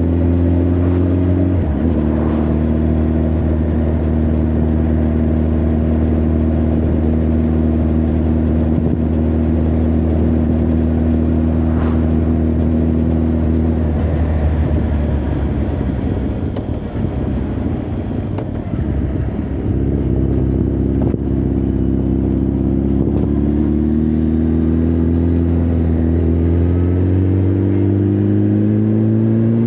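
Honda CB1300 Super Bol d'Or's inline-four engine and exhaust heard while riding: a steady cruising note with a brief break about a second and a half in. Around the middle the note breaks up and rumbles unevenly, a little quieter, as the throttle is rolled off, then it comes back and rises steadily in pitch as the bike pulls.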